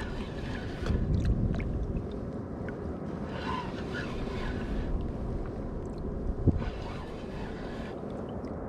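Wind buffeting the microphone and water lapping around a sea kayak, with scattered small clicks and knocks and one sharper knock about six and a half seconds in.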